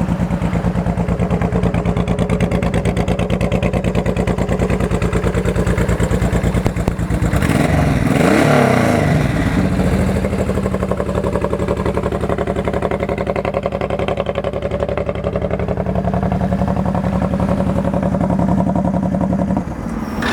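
2003 Honda VTX1800's 1800cc liquid-cooled V-twin running through a Vance & Hines exhaust, idling steadily and revved once about eight seconds in, rising and falling back to idle. The engine sounds good and tight.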